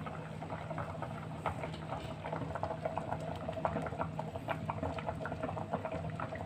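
Pot of water with moringa pods and potatoes at a rolling boil, bubbling with many small irregular pops.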